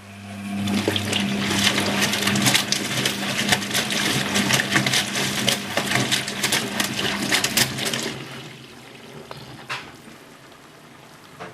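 Hoover HTC 172 washing machine running water through its drum, with a steady electrical hum under rushing, splashing water. Both start at once, run for about eight seconds, then stop, leaving faint trickling.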